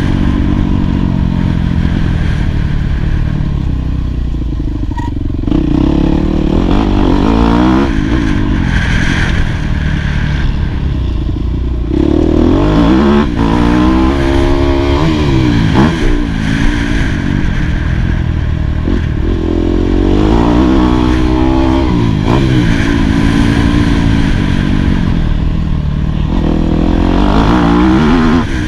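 2018 Yamaha YZ250F single-cylinder four-stroke motocross engine being ridden hard, its pitch climbing under throttle and dropping off over and over as the rider accelerates, shifts and backs off, about every few seconds.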